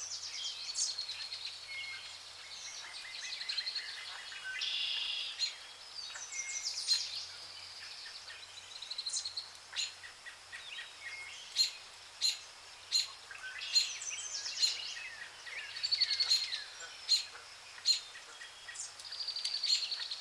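Several songbirds singing and calling over one another: fast high trills and short sharp chirps, one after another throughout.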